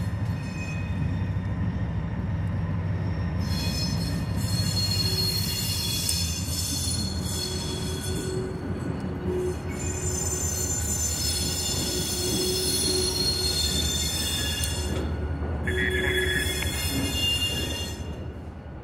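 Susquehanna (NYSW) diesel locomotives run at low speed pulling a string of hopper cars, with a steady low engine drone. The car wheels squeal against the rails in high, screeching stretches, several times over.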